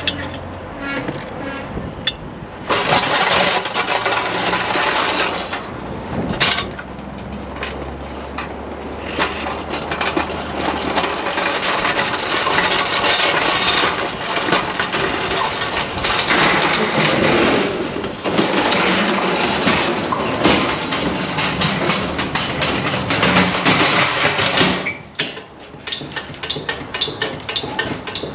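A truck's engine running loudly, with much rattling and clattering; it jumps up about three seconds in and drops off sharply near the end.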